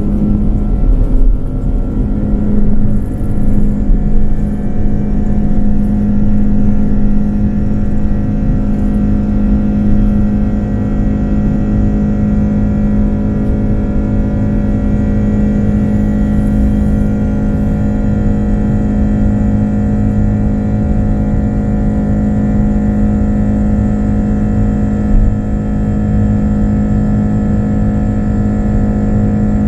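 Airbus A330-300 jet engines at high thrust during takeoff, heard inside the cabin: a loud, steady rumble with a steady hum over it, uneven for the first few seconds and then smooth.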